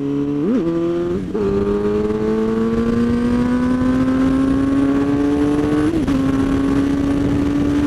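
Suzuki GSX-R 750 K7 sport motorcycle's inline-four engine under way. There are two quick changes in engine pitch about half a second and just over a second in, then a slow, steady climb in revs for several seconds, a brief dip near six seconds, and steady running after that.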